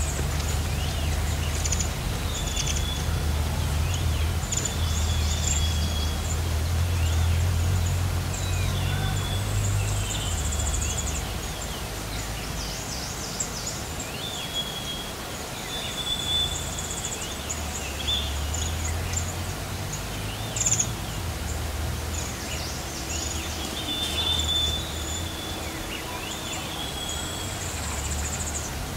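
Wild birds calling again and again in short, high whistles and thinner, higher chirps. A low rumble runs underneath and is strongest in the first half.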